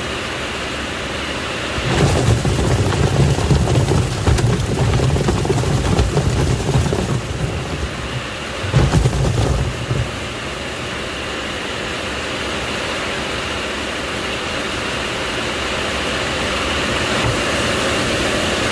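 Washing machine churning water, a continuous sloshing swish with louder surges about two seconds in and again near the middle, then a steadier wash.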